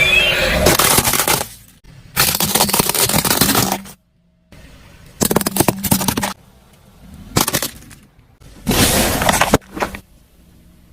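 Objects being crushed, heard as a series of about five separate crunching, cracking bursts, each starting and cutting off abruptly, some lasting a second or more and a couple very short.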